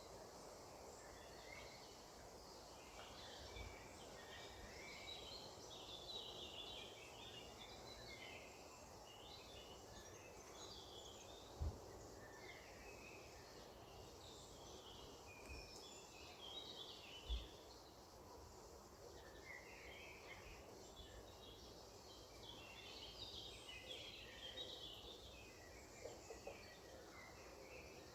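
Faint chorus of songbirds chirping and calling over a steady low background hiss, with two brief soft low thumps.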